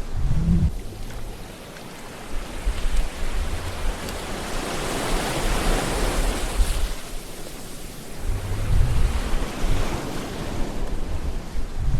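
Sea waves washing in on the shore, the surf swelling to a peak partway through and ebbing again. Brief low rumbles of wind buffet the microphone near the start and again late on.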